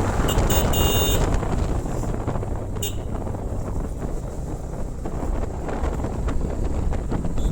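Wind buffeting the microphone on a moving motorcycle, over a steady low rumble. A few short high-pitched chirps come about half a second to a second in and again near three seconds.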